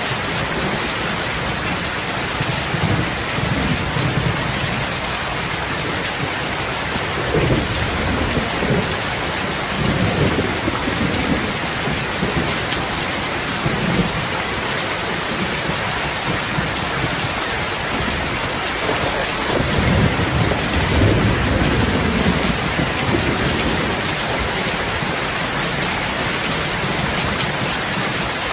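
Steady heavy rain hissing, with low rumbles of distant thunder rolling in several times; the longest and loudest rumble comes about two-thirds of the way through.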